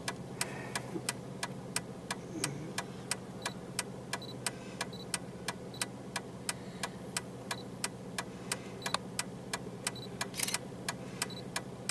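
Vehicle engine idling steadily, with a rapid, even ticking of about three clicks a second over it.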